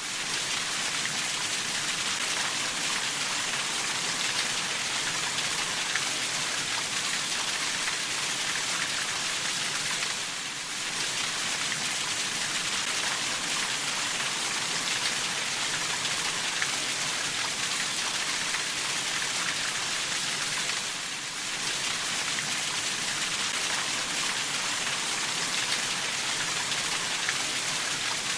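Steady rainfall: an even, hissing patter of raindrops with faint scattered drop ticks, dipping briefly in level twice.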